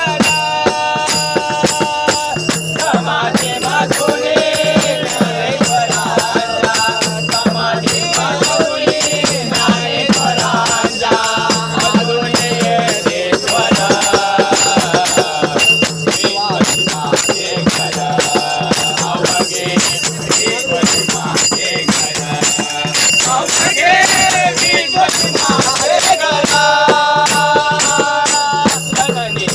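Marathi devotional bhajan in raga Bhairavi, sung with a steady rhythmic percussion accompaniment.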